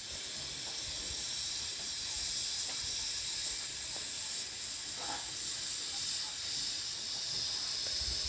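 Steady high-pitched hiss, with faint low rumbling underneath.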